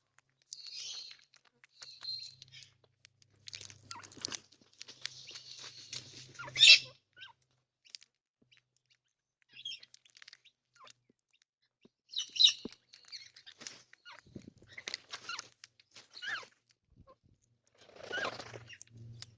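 Backyard birds calling in short, irregular bursts of high-pitched screeching and chatter, loudest about six and a half seconds in and again around twelve and a half seconds in.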